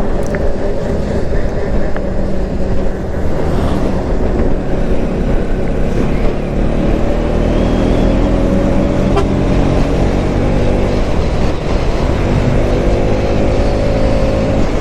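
Motorcycle engine running on the move over a steady rush of wind and road noise. Its pitch rises gradually through the second half as the bike gathers speed.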